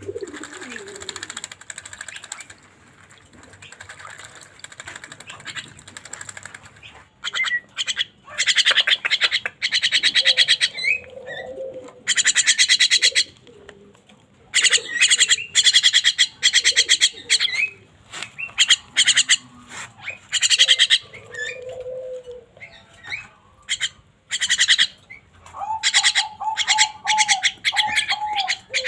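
Javan myna calling: repeated loud, harsh rasping chatter in short bursts, mixed with a few lower whistled notes. The calls start about seven seconds in, after a quieter stretch.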